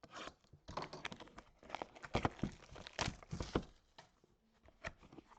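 Sports-card packaging and cards being handled: a run of irregular crinkling, rustling and scraping, busiest over the first few seconds and thinning out near the end.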